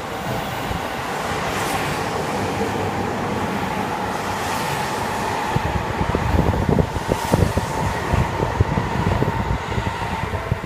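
Seibu 6000 series electric train running through the platform: a rising running noise with a steady whine as it approaches, then heavy clattering of wheels over the rail from about halfway in as the cars rush past.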